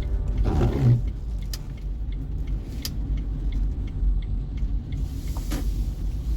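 Low, steady rumble of a car driving, with a swell of hiss about a second in and another near the end, and a few faint ticks.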